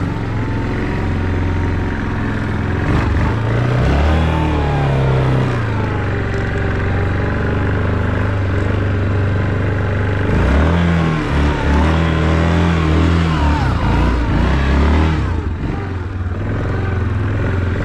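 Off-road vehicle engine running under load while riding, revving up and easing off several times.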